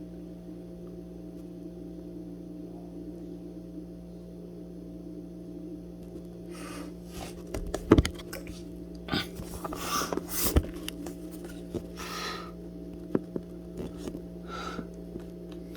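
Steady electrical hum with handling noise from moving the camera to a new angle: scattered clicks and knocks, the sharpest about halfway through, and a few short rustles.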